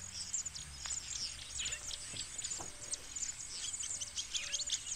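Birds chirping and twittering: a dense chorus of many short, quick calls overlapping throughout.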